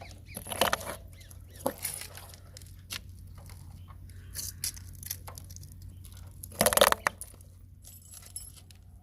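Several sharp crunches and cracks of brittle objects being crushed, the loudest near the end, over a low steady hum.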